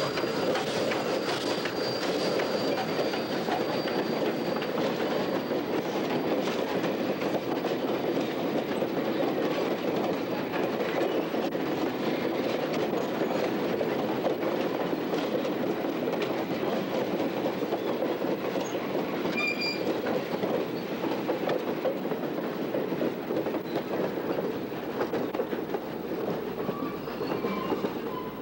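Vintage passenger coaches behind steam locomotive FWWR #2248 rolling past, with steady wheel-on-rail running noise. A thin high wheel squeal fades out within the first several seconds.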